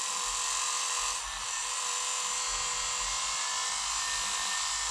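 Battery-powered sheep-shearing handpiece running free with a steady high-pitched buzzing whine, its cutter driven across the comb without wool, as it is tried out and its tension set before shearing.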